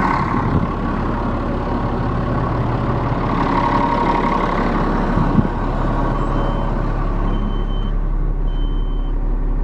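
Caterpillar 7.2-litre diesel engine of a Kenworth T300 dump truck running steadily and loudly, heard close up with the hood open. From about six seconds in a short high beep repeats about once a second over it.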